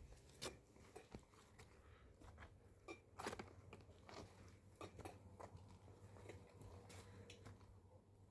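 Near silence with a faint low hum and a scattered run of small clicks and crunches.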